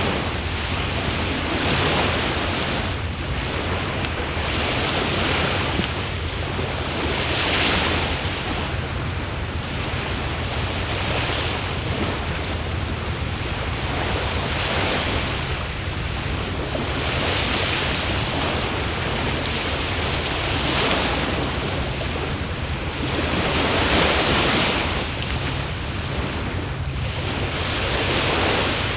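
Surf breaking on a shore, the noise swelling and ebbing every few seconds, with a steady high-pitched whine running over it.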